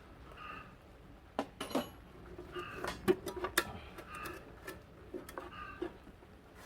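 Metal tools and parts clinking and tapping in an irregular series of sharp knocks, loudest in the middle. A bird calls in the background, a short call repeating about every two seconds.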